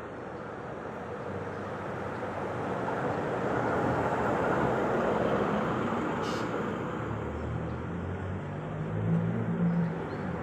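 A road vehicle passing: its noise swells to a peak about halfway through and fades, with a low engine hum coming in near the end.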